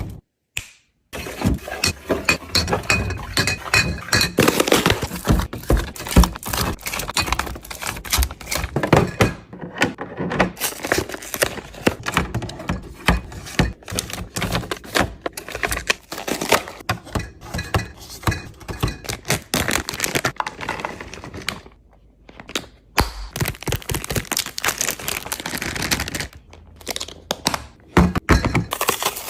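Food items, containers and packets being handled and set down while restocking a fridge: a rapid, uneven run of knocks, taps and crackles, broken by a few abrupt cuts.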